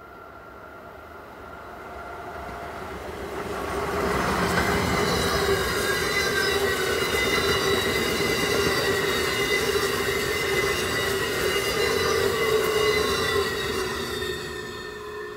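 Amtrak Northeast Regional passenger train passing at speed: it rises out of the distance over the first four seconds, stays loud for about nine seconds with several steady whining tones over the wheel noise, then fades as it recedes.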